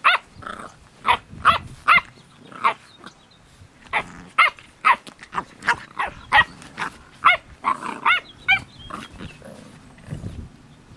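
Pit bull puppies barking and yipping in quick short calls with some growling while play-fighting. The calls come thick and fast, then thin out near the end.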